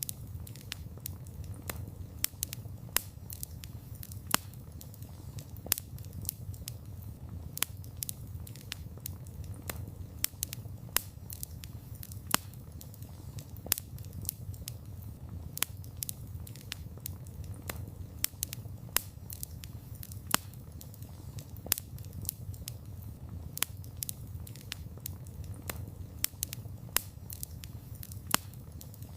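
Wood fire crackling, with many sharp pops and snaps at irregular intervals over a steady low rumble of flames.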